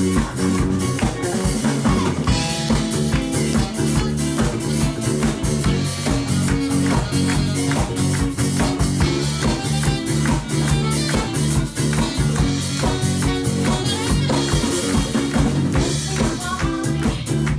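Live rock band playing, with a drum kit keeping a steady beat under guitar and bass notes.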